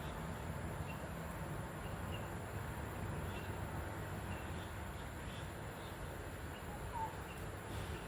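A small bird giving faint, short, high chirps, repeated roughly once a second, over a steady low rumble of background noise.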